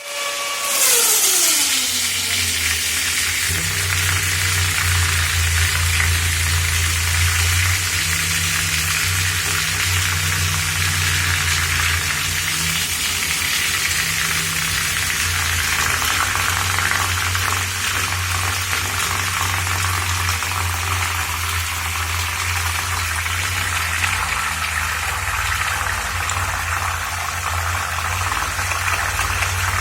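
Electric fan running with its blades in water: a steady low motor hum under a constant hiss of churning water. In the first two seconds a tone falls quickly in pitch before the hum settles.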